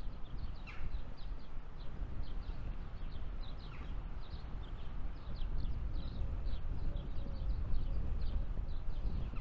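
Small birds chirping: many short, high notes that slide downward, several a second, over a steady low rumble.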